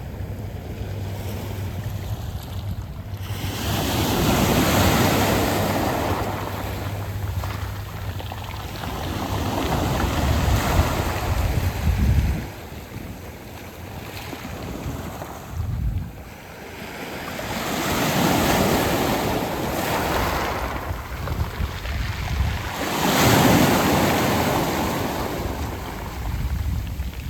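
Sea waves washing up a beach of smooth round pebbles and drawing back, swelling and fading about four times, one surge every five to seven seconds.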